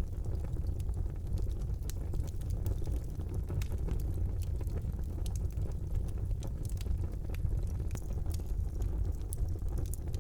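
Wood fire burning in a brick fireplace: a steady low rumble of flames with frequent small crackles and pops.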